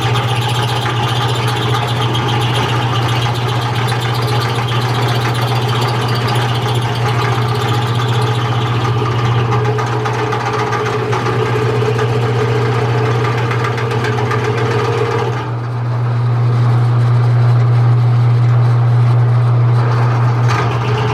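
A machine runs steadily with a strong low hum and a hiss over it. About fifteen seconds in the hiss stops and the hum gets a little louder.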